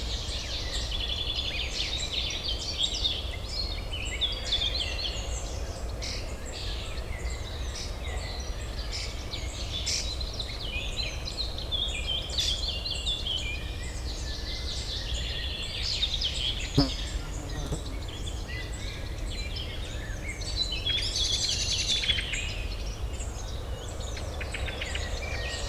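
Many birds chirping and singing over a steady low urban hum, with one sharp click about two-thirds of the way through.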